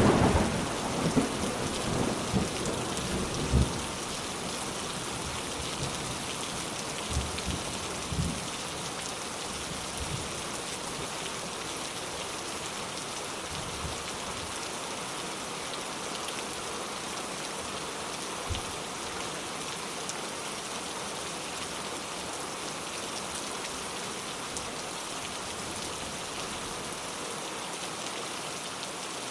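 Steady rain with a clap of thunder right at the start that rumbles on for about four seconds, then fainter rolls of thunder around seven to eight seconds in.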